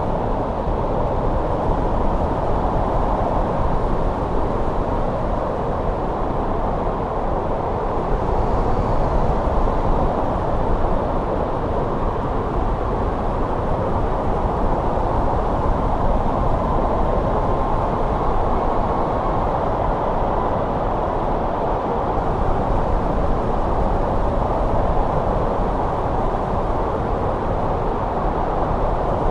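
Winter wind blowing steadily, a low, even rush with only slight swells in strength.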